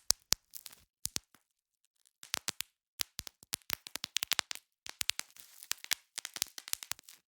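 Bubble wrap popping: sharp pops in quick irregular clusters with plastic crinkling between them, and a brief pause about a second and a half in.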